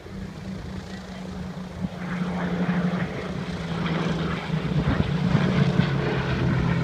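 Piston engines of propeller-driven warbirds flying past in a display. A steady drone grows louder as they approach, and its pitch dips slightly partway through.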